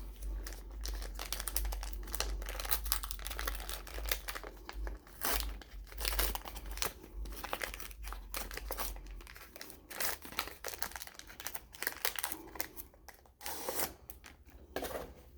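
Wrapper of a sealed 1992 Donruss Triple Play baseball card pack being torn open and crinkled, in dense irregular crackles with a louder burst near the end.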